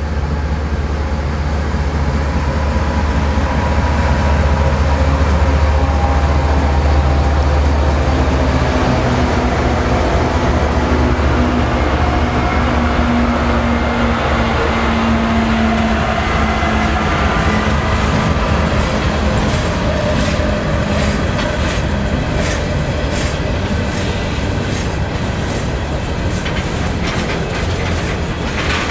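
Norfolk Southern freight train passing close by: the lead diesel-electric locomotives' engines run loud and low at first, then the hopper cars roll past with their wheels clicking over the rail joints through the second half.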